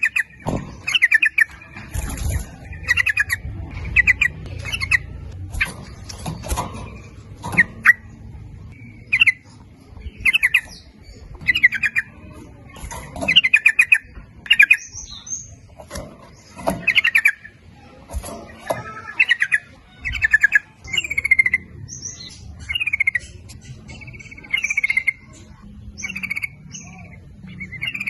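Yellow-vented bulbuls singing: short bubbling phrases repeated every second or two, with sharp clicking notes between them.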